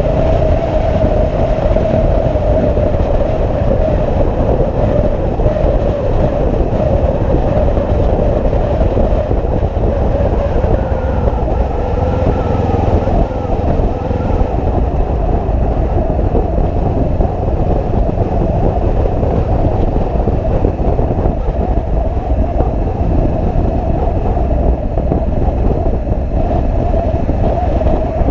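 Motorcycle running steadily at cruising speed, a constant drone with rushing noise. From about ten seconds in, a faint higher tone wavers above it for a few seconds.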